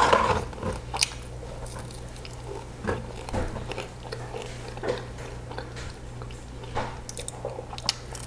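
Close-up eating sounds: chewing a mouthful of McDonald's french fries, with small mouth clicks about every second over a low steady hum.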